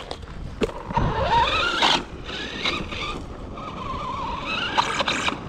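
An RC monster truck's brushless motor and drivetrain whine, rising in pitch as it accelerates and then running steadier, with a few sharp clicks. The clicking is taken by the owner for a stripped plastic spur gear, whose teeth are worn down.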